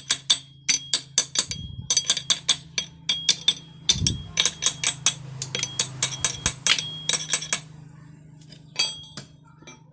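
Quick runs of sharp metallic clicks and clinks from hand tools working on metal engine parts, with a ringing edge. The runs stop about two thirds of the way through, and two more clinks come near the end, over a steady low hum.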